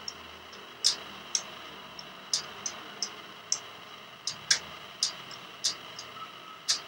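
Budgerigar tugging the small feed door of its cage with its beak, so the door clicks and clacks irregularly, about two sharp clicks a second.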